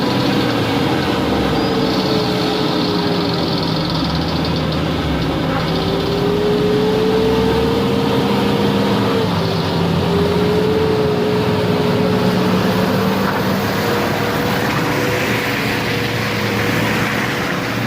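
SUV engine running steadily, its pitch rising and falling a little as the revs change.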